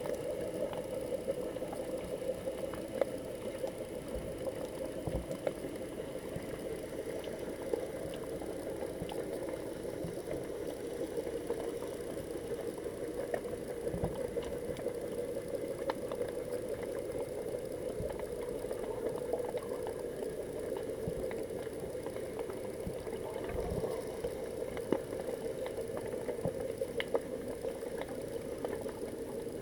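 Muffled underwater sound picked up by a GoPro in its waterproof housing: a steady low hum with scattered faint clicks and knocks.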